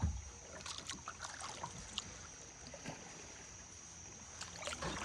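Kayak paddling on a river: a low thump at the start, then small splashes and water dripping and trickling off the paddle, with a faint steady high-pitched tone behind.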